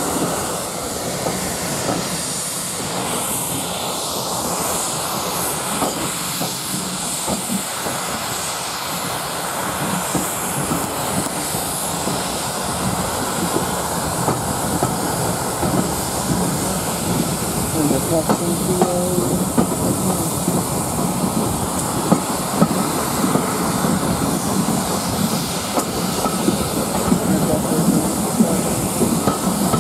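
Steam-hauled passenger train running along the line, heard from a carriage window: a steady rumble and rush of wheels on rails with clickety-clack. It grows a little louder about a third of the way in, with sharper clacks from the wheels in the second half.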